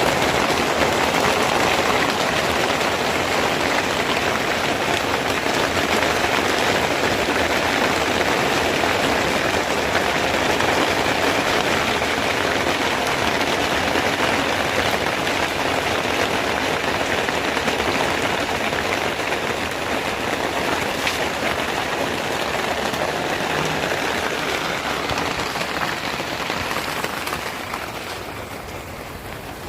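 Steady rain falling heavily, easing off slightly near the end.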